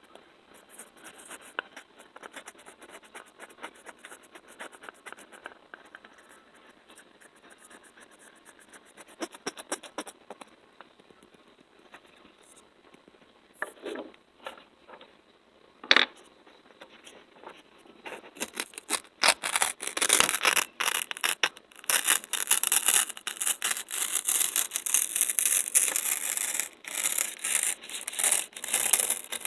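Close-miked ASMR trigger sounds: faint crackly ticking at first, one sharp click about halfway, then loud, dense rubbing and scratching for the last ten seconds or so.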